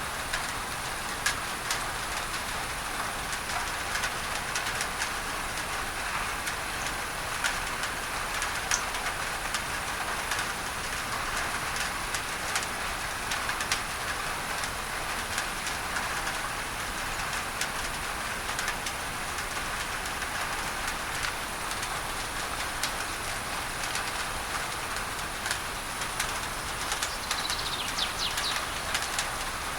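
Steady rain on a tin roof, with many sharp drop ticks on the metal, blended with a masking noise layer. A bird chirps briefly near the end.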